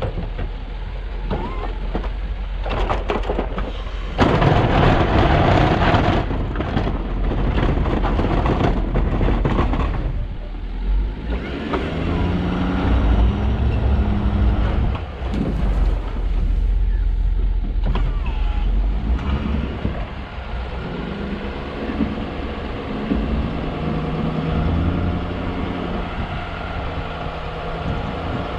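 Snow-plow truck's engine running, its pitch rising and falling as it revs, with a loud rushing noise from about four to ten seconds in.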